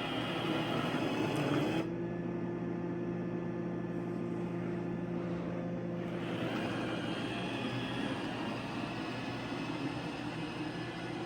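iRobot Roomba i3 robot vacuum running, its suction motor and freshly fitted rolling brushes giving a steady whirr. The hiss drops away about two seconds in, leaving a steady hum, and comes back about six seconds in.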